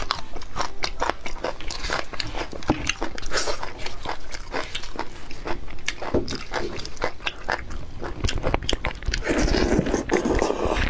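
Close-miked eating sounds: wet biting and chewing of beef bone marrow, with many quick smacking clicks at an irregular pace.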